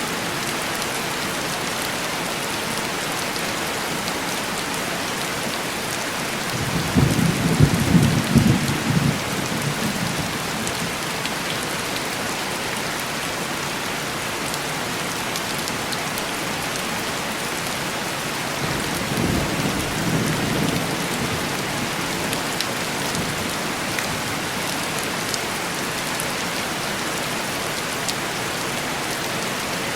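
Steady heavy rain tapping on window glass, with two rumbles of thunder: a louder one about seven seconds in and a fainter one about twenty seconds in.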